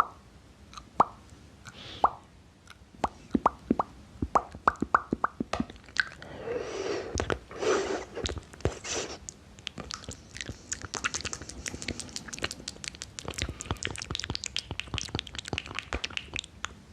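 Close-miked ASMR mouth sounds: wet lip pops and tongue clicks, one at a time at first, then a few longer wet, breathy smacks about seven to nine seconds in, then a fast dense stream of small wet clicks.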